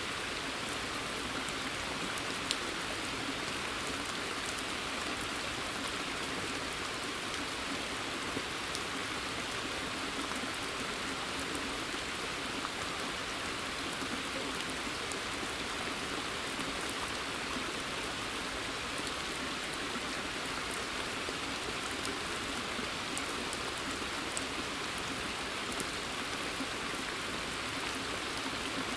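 Steady forest rain: an even hiss of rainfall with scattered single drop ticks.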